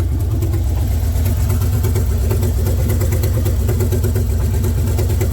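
Ford 2.9-litre V6 in a 1987 Bronco II idling steadily after a cold start in freezing weather.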